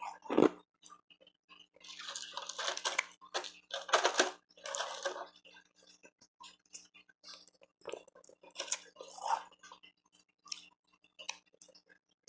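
Close-miked mouth sounds of eating refrozen ice: wet crunching and chewing in several bursts about a second long, with small clicks between.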